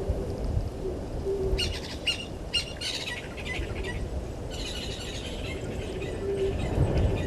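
Wild birds calling: a few short, low notes repeated at intervals, with two bursts of higher, rapid chirping calls, over a low rumble of outdoor background noise.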